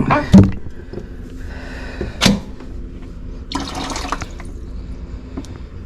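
Water pouring and splashing from an opened, clogged drain line in short bursts, with a sharp knock about two seconds in.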